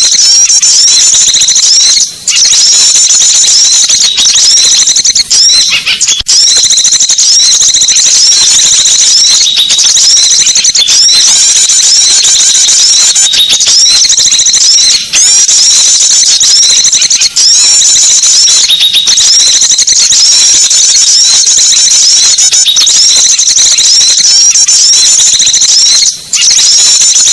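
Small songbirds twittering in a dense, high-pitched chatter that barely pauses, a bird-lure recording played to draw in small wild birds. A few very short breaks interrupt it.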